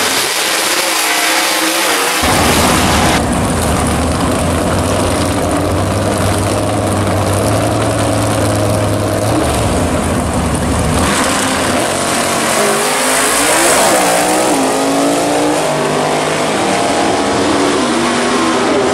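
Drag-racing muscle cars' engines idling loudly with a deep, steady rumble at the starting line, then launching and accelerating hard down the strip, the engine pitch rising again and again through the gear changes.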